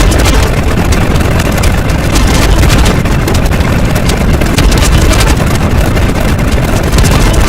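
A loud, steady low rumble with a dense crackling texture, like a motor running.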